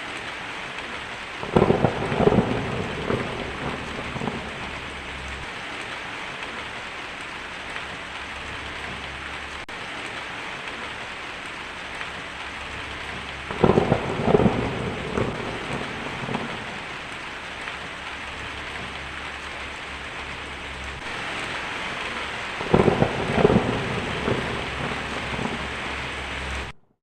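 Steady rain falling, with three thunderclaps: one about a second and a half in, one near the middle and one near the end. Each is a sudden crack followed by a few seconds of rumbling that dies away.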